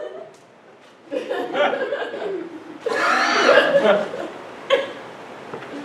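Audience laughing, starting about a second in and swelling loudest around the middle before dying away.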